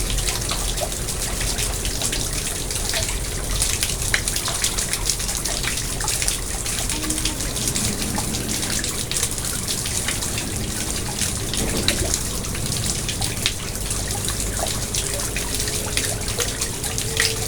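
Water from a garden pond splashing and trickling steadily, with many small drips and splashes.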